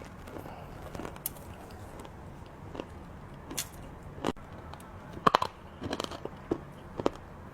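Crunchy chocolate sweets being bitten and chewed close to the microphone: scattered sharp crunches, with a quick cluster of cracks about five seconds in.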